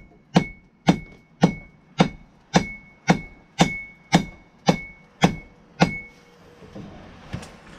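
Hand hammer striking the hot steel of a wrench on an anvil in a steady rhythm, about two blows a second, each with a short ring. The smith is drawing out the edge of a tomahawk head. The blows stop about six seconds in.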